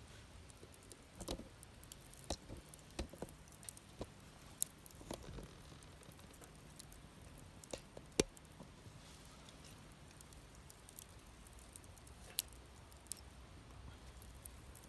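Wood fire crackling: firewood burning with scattered, irregular pops and snaps, the sharpest about eight seconds in.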